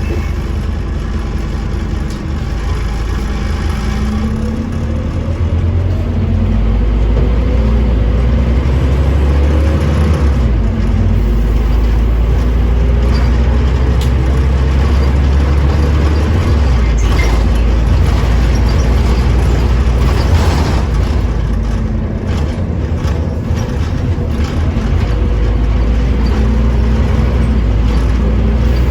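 Scania OmniCity bus's diesel engine running under way, pulling harder with rising pitch about five seconds in, then holding steady.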